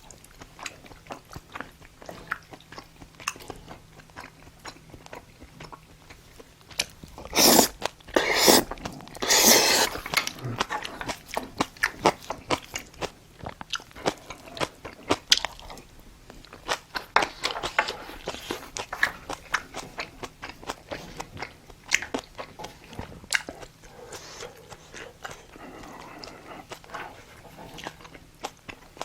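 Close-miked eating sounds of spicy braised monkfish (agujjim) being chewed: steady wet clicks, smacks and crunches, with three louder rushing bursts about seven to ten seconds in.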